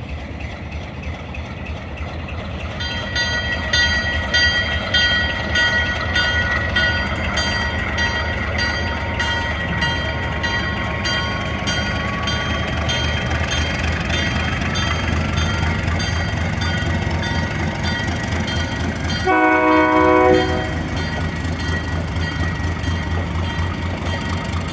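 Narrow-gauge train rolling through the yard, with a steady low rumble and regular clicking of wheels over the rail. About three-quarters of the way through comes a single signal blast of about a second, several notes sounding together.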